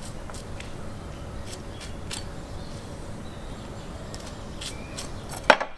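Knife work on a crocodile carcass: scattered light clicks and scrapes over a steady low rumble, with one loud sharp knock near the end.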